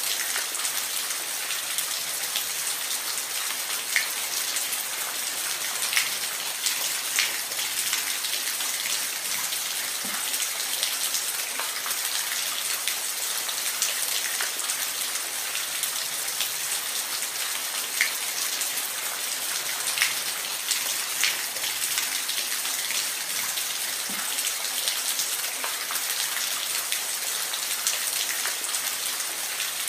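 Steady rainfall in a forest, an even hiss with scattered sharp drips of big drops landing close by.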